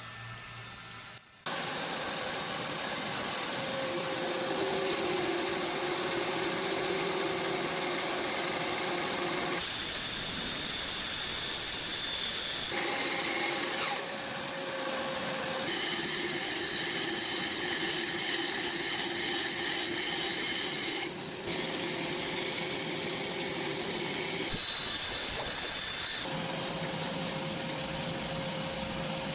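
An electric power tool running steadily on wood, starting about a second and a half in, its tone and pitch shifting abruptly several times.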